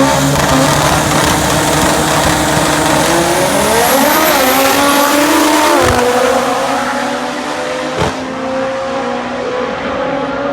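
Drag-racing car at full throttle down the strip, its engine note climbing and falling in the middle of the run over loud exhaust and tyre noise, then easing off near the end.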